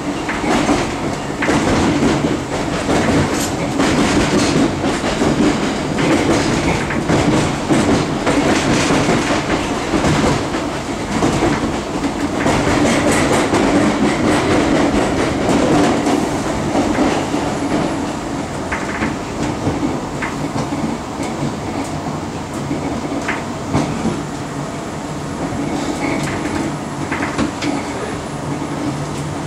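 London Underground D Stock train running, heard from inside the carriage: a steady rumble of wheels on the track with irregular clatter over rail joints. It is loudest in the first half and quieter from about halfway through.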